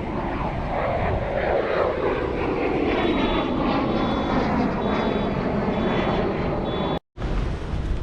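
An airplane flying past at an air show, its engine noise steady and loud, with the pitch sliding slowly down as it passes and moves away.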